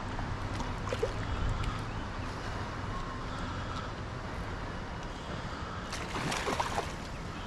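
Steady rushing of stream water, with a burst of rustling and clicks about six seconds in.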